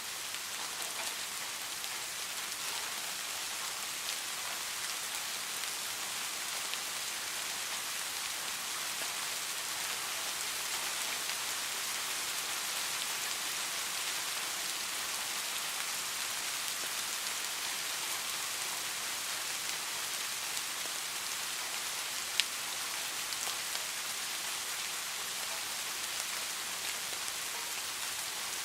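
Steady rain falling, an even hiss of many drops with no thunder, and a single sharp tick about three-quarters of the way through.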